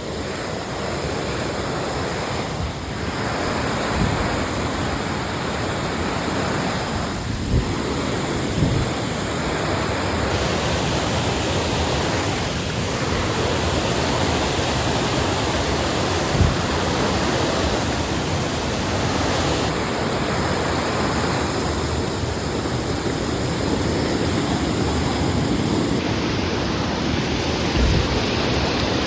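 Waterfall rushing steadily, with a few brief low thumps on the microphone.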